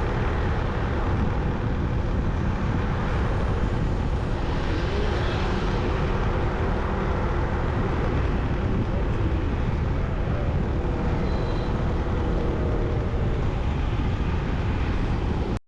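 Motorcycle running at a steady cruising speed, its engine hum under a steady rush of wind on the microphone.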